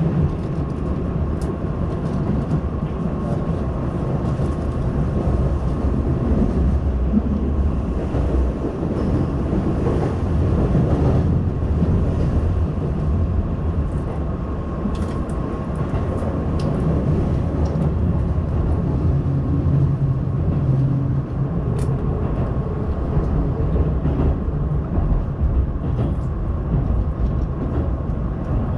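Keihan limited express train running at speed, heard from inside the passenger car: a steady rumble of the wheels on the track with a faint steady whine and occasional light clicks.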